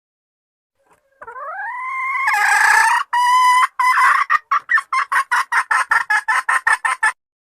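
Female junglefowl (hen) calling: a drawn-out note rising in pitch, then a fast run of short clucking notes, about four a second, that stops abruptly. It is the call a hen uses to draw a male.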